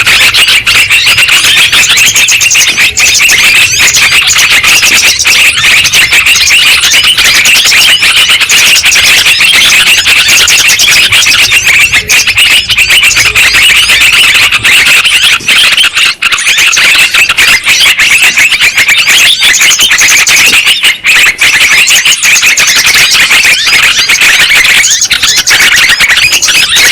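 Yellow-vented bulbuls (trucukan) chattering: a loud, unbroken mass of fast, overlapping shrill calls from a bird-lure recording.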